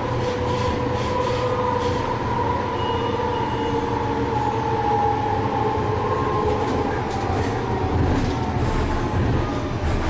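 Inside a TRAX light-rail train under way: a steady rumble with a drive whine that drifts slightly in pitch, and scattered light clicks from the wheels and track.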